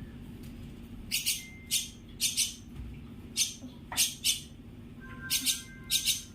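Common myna (shalik) giving a series of short, harsh, screechy calls, about a dozen, mostly in pairs, with a few brief whistled notes among them. A steady low hum runs underneath.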